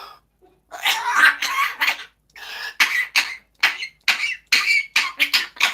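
A parrot mimicking a person coughing and choking: two longer hacking coughs, then a quick string of about six short coughs.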